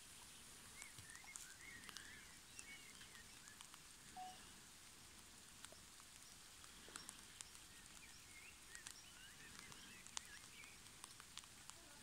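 Near silence: quiet outdoor ambience with faint birds chirping in two spells, about a second in and again around eight seconds in, and scattered faint ticks.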